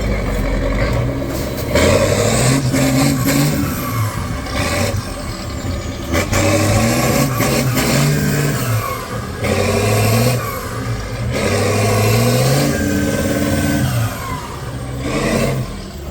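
Heavy off-road truck's diesel engine revving hard under load, its pitch climbing and dropping again several times.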